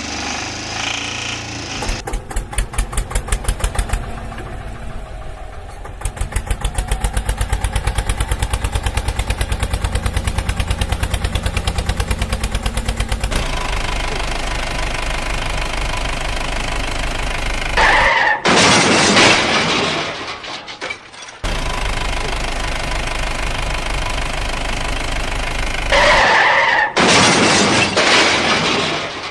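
Cartoon vehicle sound effects: an engine starting and running with a fast, even chugging, then settling to a steadier run. Two loud, noisy crash-like bursts come about two-thirds of the way in and again near the end.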